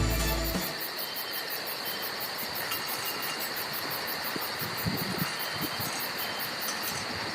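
Background music cuts off in the first half-second, then steady outdoor ambience: a continuous high insect chorus with a fast regular pulse, a soft hiss of air, and a few light knocks about five seconds in.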